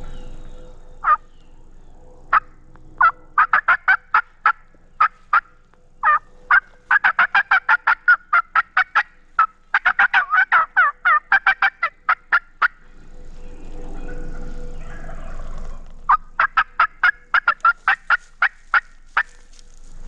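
Turkey yelping and cutting: a long series of sharp, high yelps and clucks that quickens into fast cutting in the middle, breaks off for a few seconds of soft rustling, then returns as another fast run near the end.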